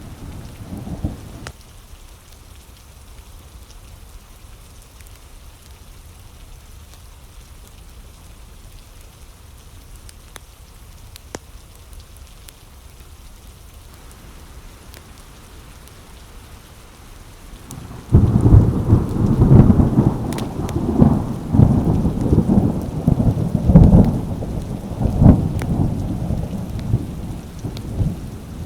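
Steady rain, then a loud roll of thunder that breaks in suddenly about two-thirds of the way through and rumbles on, rising and falling, to the end.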